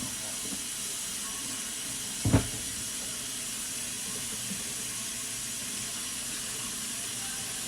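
Kitchen tap running steadily into a sink, a constant hiss, with one sharp knock about two seconds in.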